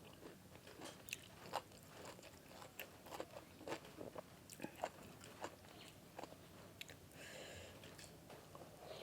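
Faint, irregular crunching of someone chewing crunchy boiled field snail meat close to the microphone, as short clicks scattered throughout. There is a brief hiss about seven seconds in.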